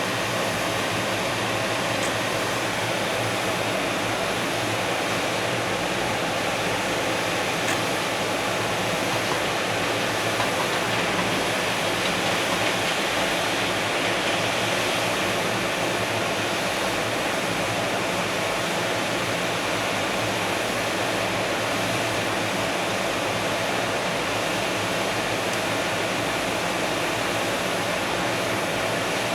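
A freight train's container wagons rolling past, making a steady, even rush of wheel-and-rail noise that does not change.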